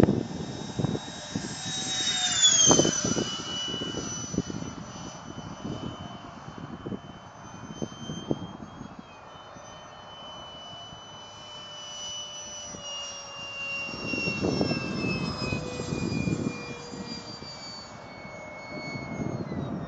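Electric ducted-fan motor of a ParkZone Habu foam RC jet whining in flight. Its pitch drops sharply about two and a half seconds in, then glides slowly lower through the second half. Wind buffets the microphone in gusts throughout.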